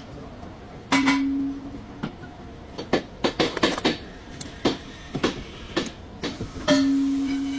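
Metal clanks and knocks from tools and parts being handled and struck, about a dozen sharp hits; two louder strikes, about a second in and near the end, ring on with a steady tone for about a second.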